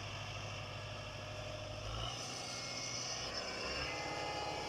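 Kubota M7040 tractor's diesel engine running steadily.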